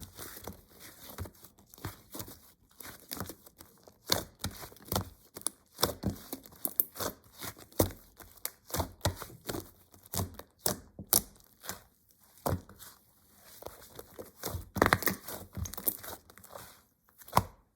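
Slime being squished and stretched by hand, giving rapid, irregular crackling clicks and pops. It stops abruptly near the end.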